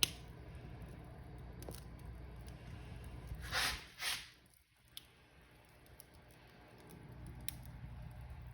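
Wood fire burning in a fireplace, a low rumble under scattered crackles and a sharp pop at the start. Two short hissing flares about three and a half and four seconds in, after which the rumble briefly drops away and slowly builds back.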